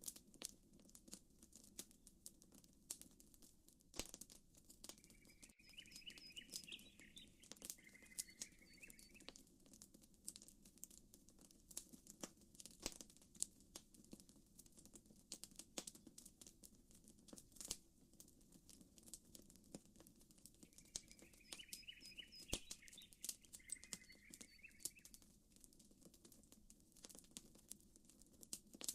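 Campfire crackling quietly with many irregular sharp pops, over a low steady rush of gently lapping water. A bird sings a short warbling phrase twice, about five seconds in and again about twenty-one seconds in.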